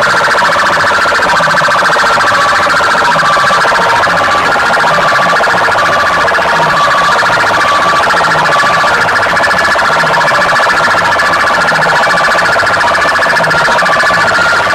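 Very loud, distorted siren-like wailing blaring from a DJ sound system's horn loudspeakers, with a low pulse about once a second underneath.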